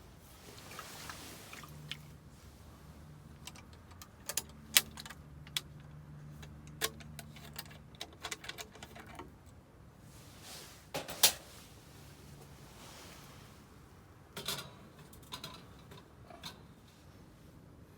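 Scattered light clicks, clinks and knocks of small objects being handled, the loudest about eleven seconds in, over a faint low hum that runs for several seconds.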